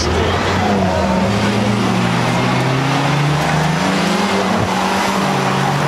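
Car engines revving as cars accelerate past one after another, their pitch rising and falling.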